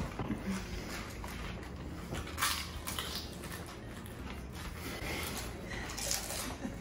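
People chewing hard pani puri shells: faint crunching and wet mouth noises, with a few short, louder crunches.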